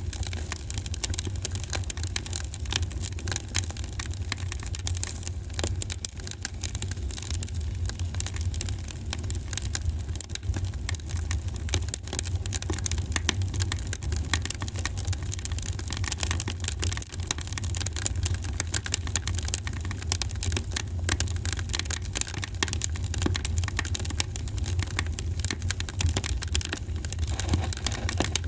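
Wood fire crackling, with many small pops and snaps over a steady low rumble.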